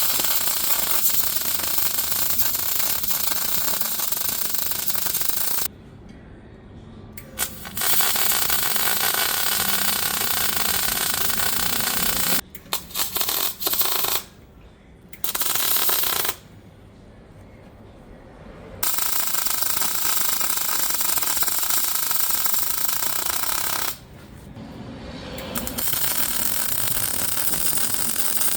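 Electric arc welding a steel plate onto a hay rake frame, the arc crackling and hissing in runs of a few seconds each, stopping and restarting about six times.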